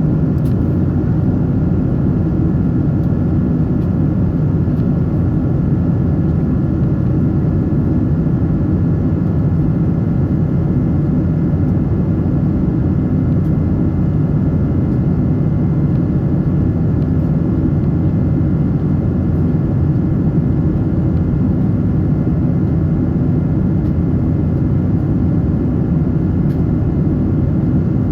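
Steady cabin noise of a Boeing 777-300 in flight: a loud, even rumble of engines and airflow heard from inside the passenger cabin, with no change in pitch or level.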